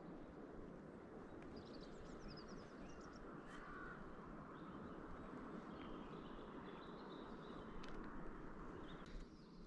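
Faint outdoor ambience: a steady rushing noise with scattered bird calls over it, a few quick chirps near the start and several brief calls later on.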